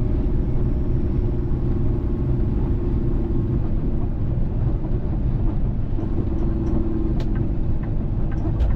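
Semi truck diesel engine and road noise heard from inside the cab while driving: a steady low drone, with a couple of faint sharp ticks near the end.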